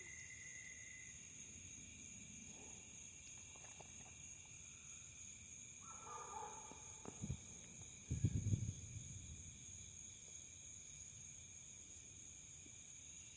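Night insects, crickets, chirring as a steady high drone, with a brief faint call about six seconds in and a few low bumps around eight seconds in.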